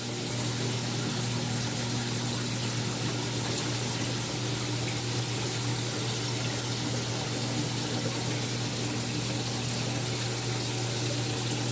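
Saltwater aquarium equipment running: a steady rush of circulating water over a constant low pump hum.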